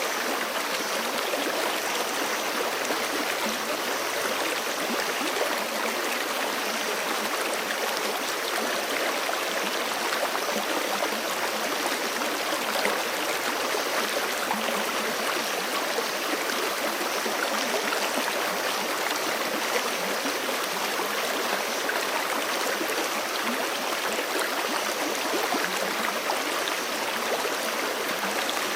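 Forest creek running steadily over rocks, a continuous rushing and gurgling of water.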